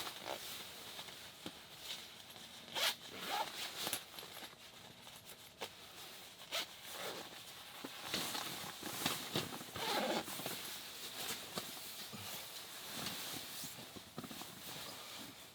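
A zipper being pulled in a series of short rasping strokes, mixed with rustling of fabric.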